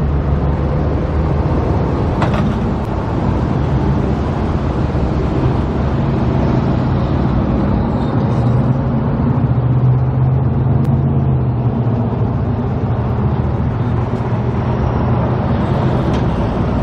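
Steady low drone of a helicopter overhead, mixed with road traffic noise.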